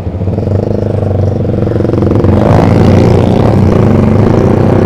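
Yamaha Vixion single-cylinder four-stroke motorcycle engine running through a Proliner TR1 short aftermarket exhaust. It gets louder over the first couple of seconds as the bike pulls away, then runs steadily under way.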